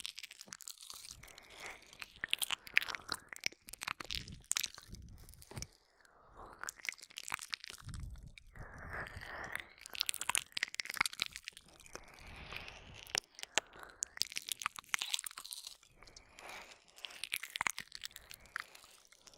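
ASMR ear-licking mouth sounds, recorded close on a binaural microphone: wet licks, smacks and lip clicks in an irregular, dense stream, with brief softer pauses between runs.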